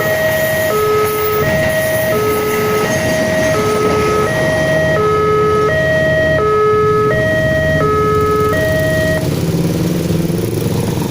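Railway level-crossing warning alarm sounding its two-tone electronic chime, a low note and a high note alternating about every 0.7 s, which stops about nine seconds in. Under it, road vehicle engines are running and grow louder toward the end.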